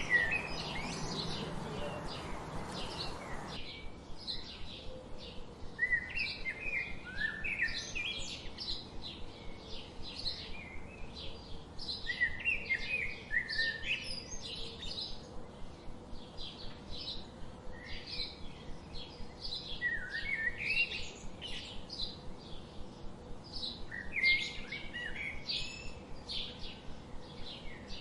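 Wild songbirds singing and chirping: a constant stream of short, high chirps, with a lower warbled phrase returning every few seconds. A steady hiss under the birds for the first few seconds cuts off suddenly.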